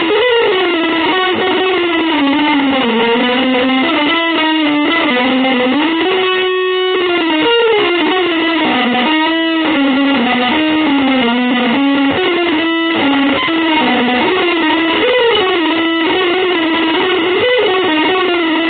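Electric guitar playing an improvised single-note melodic line in a free-jazz style, with notes bending and sustaining.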